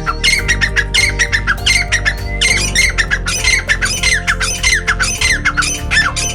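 Caged birds squawking in a rapid, continuous run of short, harsh calls, over background music.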